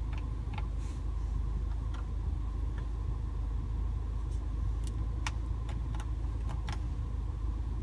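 Steady low hum of the 2015 MINI Cooper S Countryman's turbocharged 1.6-litre four-cylinder idling, heard from inside the cabin, with a handful of faint clicks as the radio's buttons are pressed.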